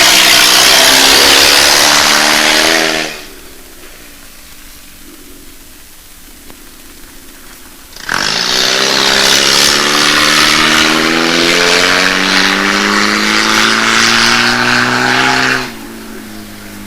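Ford Festiva 1.3-litre four-cylinder engine driving the vehicle under acceleration, its note climbing steadily. About three seconds in the loud run drops suddenly to a quieter steady drone. A second loud run starts at about eight seconds, rises in pitch and cuts off suddenly near the end.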